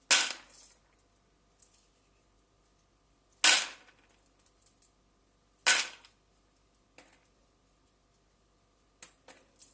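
Three sharp clacks of hard objects knocking in a kitchen, about two to three seconds apart, with a few lighter clicks between.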